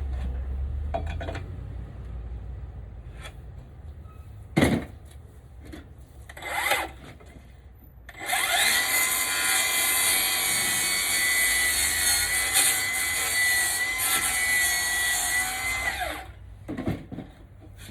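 Electric power saw spinning up, running steadily with a high whine for about eight seconds while cutting wood, then winding down. A sharp knock comes about midway before it starts.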